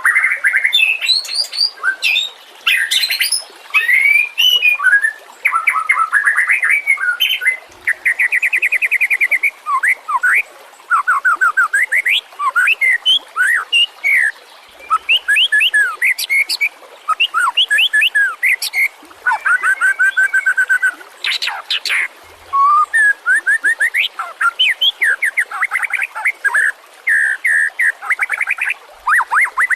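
White-rumped shama singing a long, varied song of fast trills, rapid repeated note runs and whistled sweeps, in phrases broken by short pauses.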